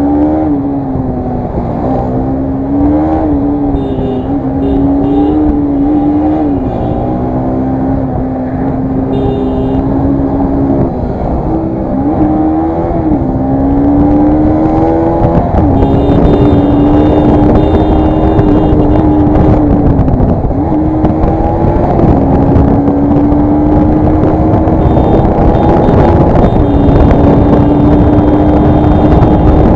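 Bajaj Pulsar NS200 engine pulling hard under full throttle, the revs climbing and then dropping sharply at each of several upshifts as the bike gathers speed. The engine grows steadily louder toward the end.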